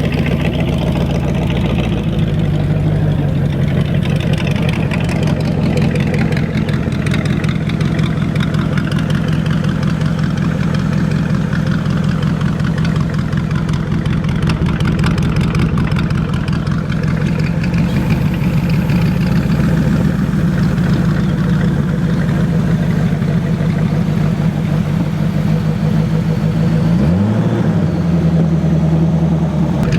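Big-block Cadillac 500 cubic inch V8 in a 1930 rat rod running loud and steady, with a short rev near the end.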